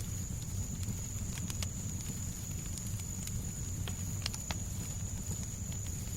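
Fireplace crackling, with scattered sharp pops over a steady low rumble of white noise and a thin, steady high tone.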